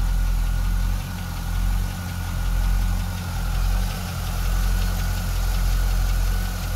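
Engine running steadily with a rapid knocking from piston slap: the pistons rock in the bores and slap against the cylinder walls because of excessive piston-to-wall clearance.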